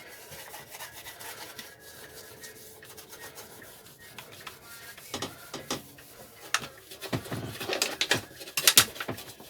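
Scraping and rubbing on a lawnmower deck, working at a baked-on deposit: soft and steady at first, then a run of louder, sharper strokes in the last few seconds.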